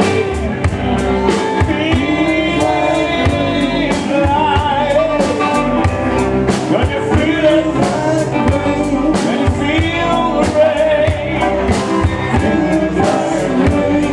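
Live band playing a blues-rock song on drums, bass, guitar and keyboard, with a sung vocal line over a steady drum beat.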